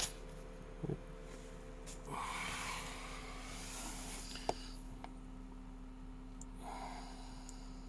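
Quiet steady electrical hum, with a few soft breaths close to the microphone and a couple of small clicks.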